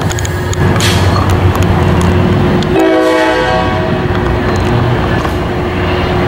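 Tri-Rail double-deck commuter train running through the station with a steady low diesel rumble, and a short horn blast a little under three seconds in.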